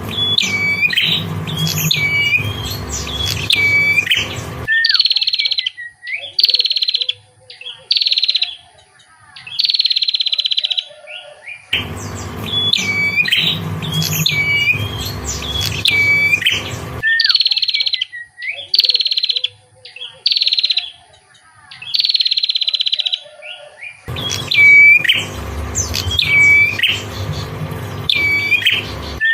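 Songbird singing in a looped recording: a few seconds of quick chirps over a low background rumble, then a run of short high notes. The whole sequence repeats about every 12 seconds, a training recording for caged songbirds.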